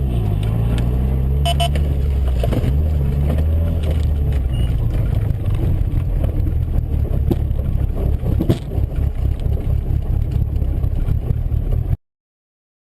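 Car engine and road rumble, the engine's pitch shifting over the first few seconds, with a few sharp knocks along the way. The sound cuts off abruptly about a second before the end.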